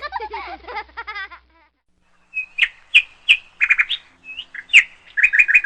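Birds chirping: a quick run of short, sharp chirps beginning about two seconds in and bunching together near the end.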